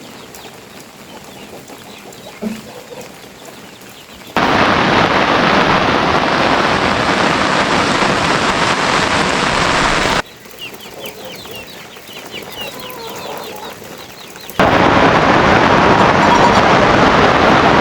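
Rain falling, quieter at first with a few faint bird calls. Then much louder, heavier rain noise cuts in abruptly about four seconds in, drops back to the quieter rain with chirping about ten seconds in, and cuts back in loud a few seconds before the end.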